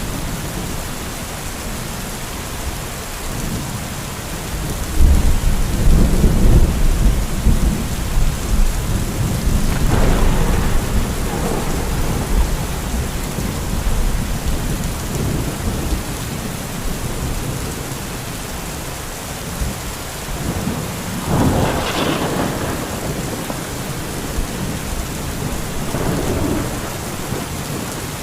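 Thunderstorm: steady rain with thunder, a loud low rumble about five seconds in, and further rolls around ten seconds and around twenty-one seconds.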